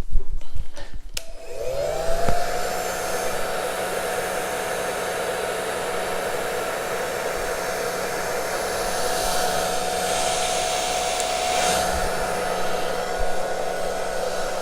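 Hand-held hair dryer switched on about a second in, its motor whine rising to a steady pitch over a rush of air as it blows poured acrylic paint across the canvas. It switches off at the end, the whine falling away.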